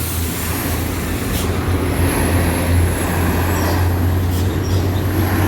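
Heavy truck engine running under load with a steady low drone, a faint high whine above it.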